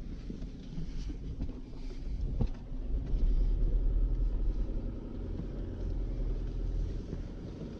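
Car driving, heard from inside the cabin: steady engine and road rumble that grows louder about three seconds in, with a single knock about two and a half seconds in.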